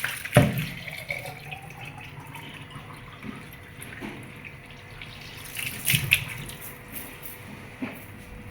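Tap water running into a sink, with a few knocks and clunks of items being handled, the loudest about half a second in and a cluster around six seconds.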